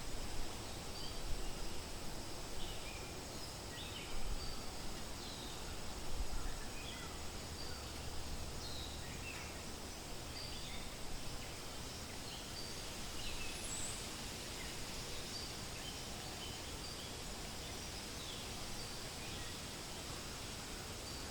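Wind rustling through forest leaves, gusting a few times in the first several seconds, with birds chirping: short, scattered high chirps throughout.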